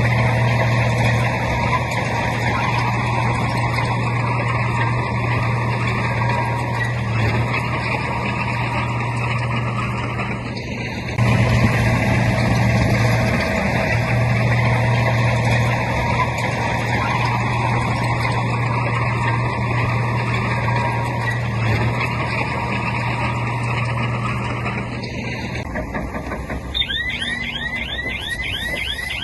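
Heavy diesel earthmoving machinery running steadily under load, a bulldozer and dump trucks working soil. The engine drops briefly about eleven seconds in and comes straight back louder. Near the end a quick series of short rising chirps sounds over a quieter engine.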